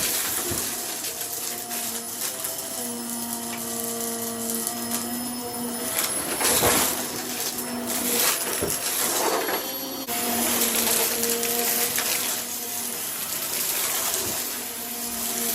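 A vacuum cleaner running steadily with its motor whine over a rushing hiss. The loudness swells and falls a few times, and the sound changes abruptly about ten seconds in.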